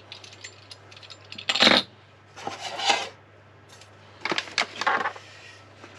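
Kitchen dishes and utensils clinking and clattering in three short bouts, the loudest about one and a half seconds in, over a steady low hum.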